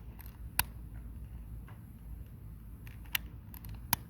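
A few sharp, isolated clicks or small pops, about half a second in and again twice near the end, over a steady low background rumble.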